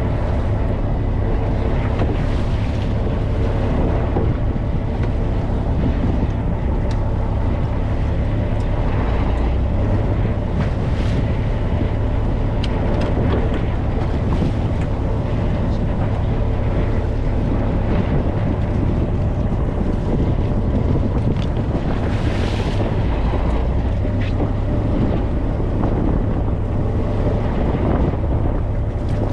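Fishing boat's engine running steadily with a constant low drone, with wind buffeting the microphone and the rush of water. A few brief hissing surges come through, the largest about two-thirds of the way in.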